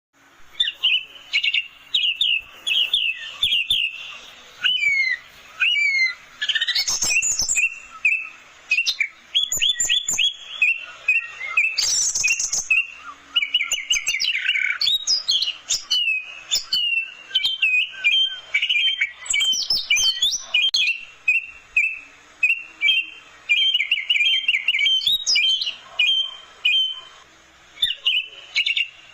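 Orange-headed thrush singing a fast, varied song: rapid runs of repeated notes and slurred whistled glides in phrases of a second or two, separated by brief pauses.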